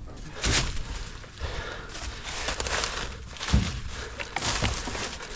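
Cut oak log rounds thudding as they are tossed and dropped onto a trailer, a few separate wooden knocks with the loudest about three and a half seconds in, with scuffing and rustling between.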